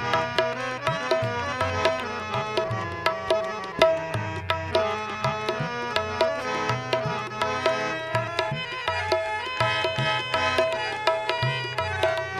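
Instrumental interlude of a Hindi devotional bhajan: tabla keeping a steady, busy rhythm under sustained melodic accompaniment.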